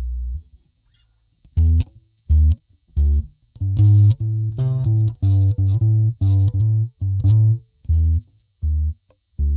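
Epiphone EB-0 electric bass played clean. A held low note is cut off just after the start; after a brief pause comes a run of short, detached plucked notes, and a new sustained note starts near the end.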